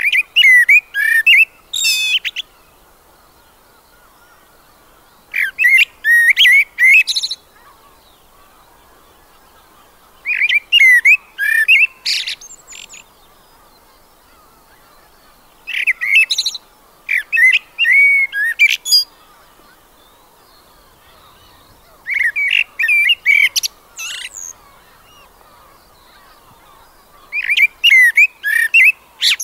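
A songbird singing: six warbling phrases of about two seconds each, one every five or six seconds, over a faint steady hiss.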